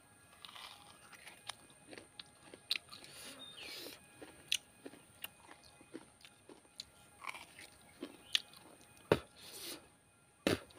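Close-up biting and chewing of fresh coconut flesh: irregular crisp crunches and wet mouth sounds. Two sharper, louder clicks come near the end.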